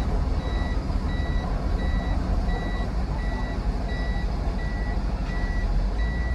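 Reversing alarm of a heavy vehicle beeping steadily about twice a second over a diesel engine's low rumble, at a stone and sand loading yard.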